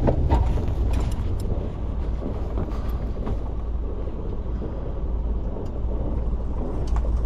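A sailing yacht's inboard engine running at low revs while manoeuvring to hold station against the current, with wind buffeting the microphone and a few light knocks.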